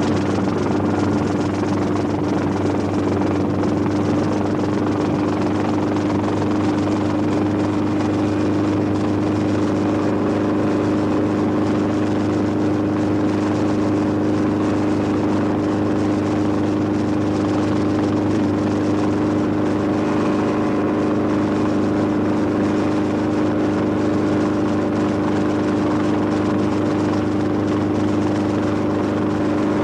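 Steady engine drone running at a constant pitch, with no change in speed or level.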